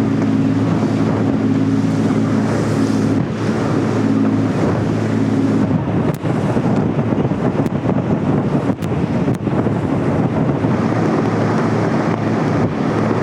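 Wind buffeting the microphone over the steady low drone of the tour boat's engine, with choppy water rushing along the hull. A few sharp knocks cut through about six and nine seconds in.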